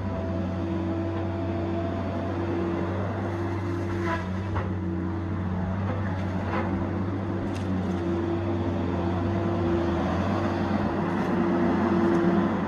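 Tigercat 870C feller buncher's diesel engine running steadily under work, with a higher droning tone that comes and goes every second or two, and a couple of faint knocks.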